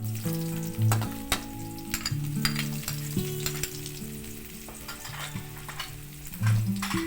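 Food sizzling in a pan, with frequent clicks of a utensil stirring it. Soft background music with held low notes plays underneath.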